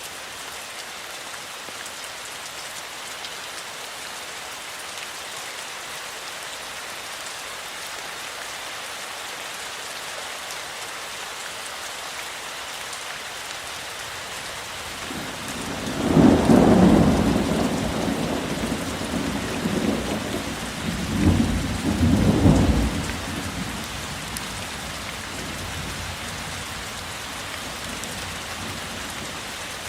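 Steady rainfall with a rolling rumble of thunder about halfway through that swells, peaks again twice, and fades out, leaving the rain alone.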